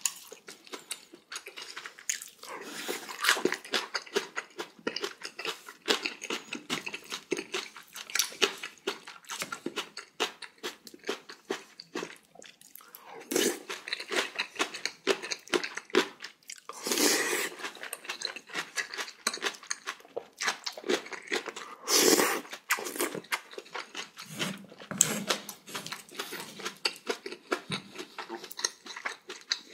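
Close-up eating sounds: a person chewing crunchy cubed radish kimchi (kkakdugi), with many quick, crisp crunches and a few louder, longer moments about 13, 17 and 22 seconds in.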